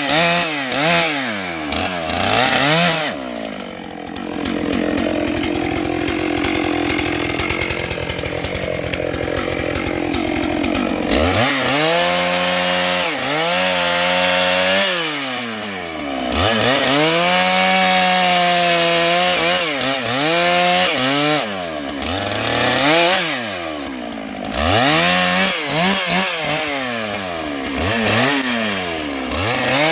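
Stihl MS 661 two-stroke chainsaw revved up and down over and over, its pitch rising and falling. For several seconds after the start it holds a lower, rougher, steadier note before the revving resumes.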